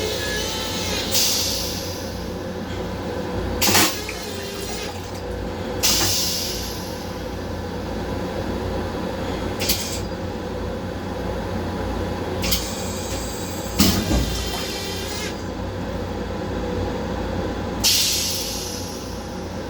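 A Long Island Rail Road M7 electric railcar running, heard from inside its small restroom: a steady low rumble and hum, broken by several short hissing bursts that fade away.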